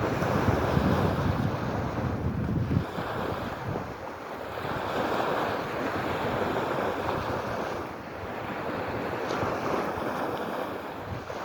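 Sea waves washing ashore, the noise swelling and ebbing every few seconds, with wind rumbling on the microphone for the first few seconds.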